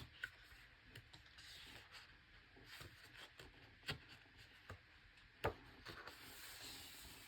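Faint rubbing and rustling of heavy paper as pages of an oversized hardcover art book are handled and turned, with two sharp ticks, the louder one about five and a half seconds in.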